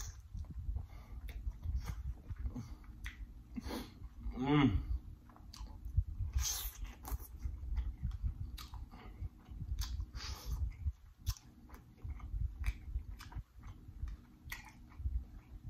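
Close-miked chewing of sauce-soaked king crab meat: wet smacking and squelching mouth sounds with many small clicks throughout. A short hum of the voice, bending in pitch, comes about four to five seconds in.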